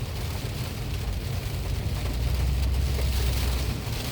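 Rain falling on a moving car, heard from inside the cabin over steady engine and road rumble. The low rumble swells for about two seconds in the middle.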